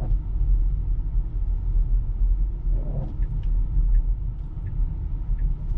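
Low steady rumble of road and tyre noise heard inside a Tesla's cabin as it drives on winter tyres over a snow-covered street, with a few faint ticks.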